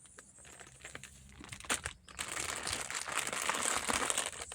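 Plastic packet of powdered milk crinkling as it is handled and folded over to close it: a few sharp clicks, then about two seconds of continuous crackly crinkling.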